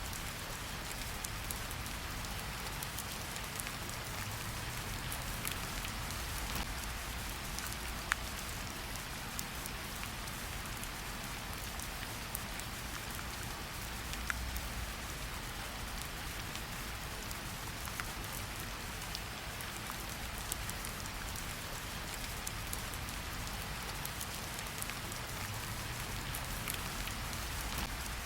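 Steady rain falling in a forest, an even hiss of drops with occasional sharper single drops striking close by.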